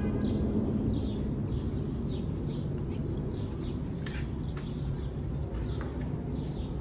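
Small birds chirping over and over, a few short falling chirps a second, over a steady low rumble.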